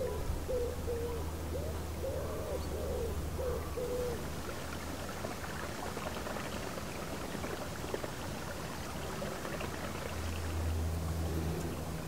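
A bird gives a low cooing song, a short phrase of notes repeated over about the first four seconds, over a steady outdoor background hiss. Near the end a low steady hum comes in.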